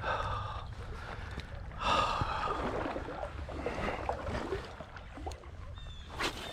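Water sloshing around a wading angler, with heavy breaths about two seconds apart; faint high bird chirps near the end.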